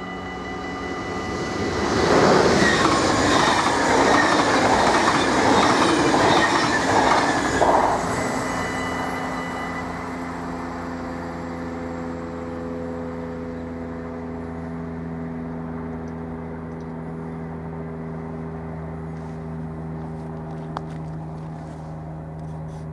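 Dutch level-crossing warning bell ringing steadily as an InterCity train passes at speed, the rush and clatter of its wheels on the rails loud for about six seconds. The bell stops about ten seconds in, shortly after the train has gone, and a low steady hum remains as the barriers rise.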